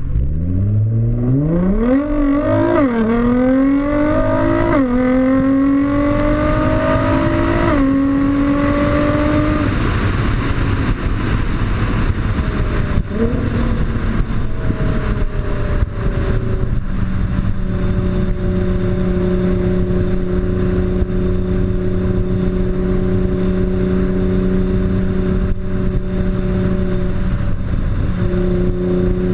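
Nissan GT-R with an HKS aftermarket exhaust accelerating hard, its engine note climbing through the gears with upshifts about three, five and eight seconds in. It then settles into a steady drone while cruising.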